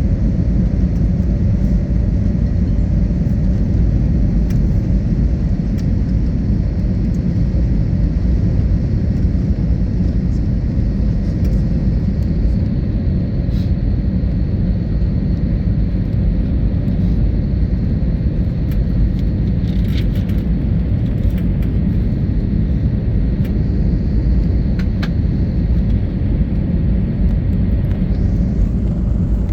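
Jet airliner cabin noise: the steady, low rumble of the engines and airflow heard from a window seat while the aircraft is on approach to land.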